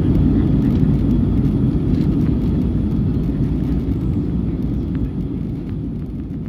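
Airbus A319-114 cabin noise heard from inside the cabin: a steady, low rumble of its CFM56 jet engines and rushing air, slowly getting quieter.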